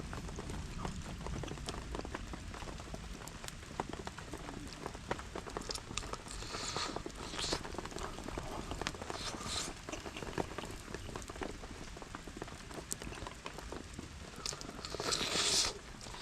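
Rain falling steadily while a wood campfire crackles with many sharp pops, with a few brief louder hissing bursts, about 7 s, 9.5 s and 15 s in.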